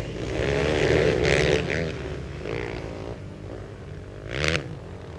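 Racing quad (ATV) engines running hard, pitch rising and falling as throttles open and close. They are loudest about a second in, and two quick swells in engine pitch come near the end.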